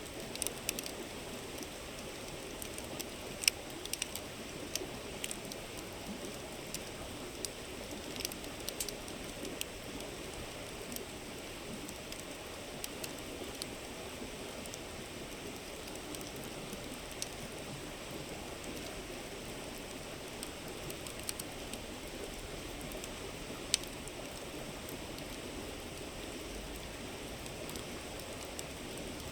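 River water flowing and murmuring steadily, with a campfire crackling over it in sharp pops and snaps, most frequent in the first ten seconds, with a loud pop about 24 seconds in.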